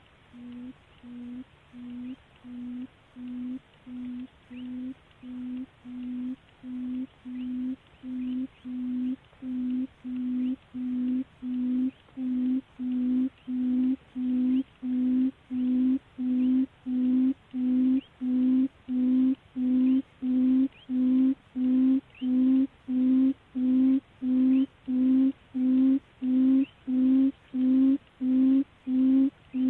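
Buttonquail decoy call: a long series of low hooting notes, about four every three seconds, growing louder over the first half and then holding steady.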